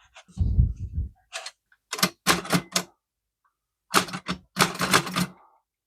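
Chicago typewriter typing a short test, its keystrokes striking in two quick runs of sharp clacks, after a low thud near the start. The star hammer doing the striking is one the owner doubts is hitting hard enough and judges worn out.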